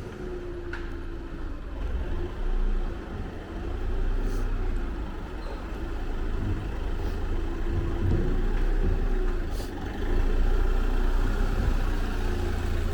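A motor vehicle's engine running close by in a city street, with a steady low rumble and a wavering hum.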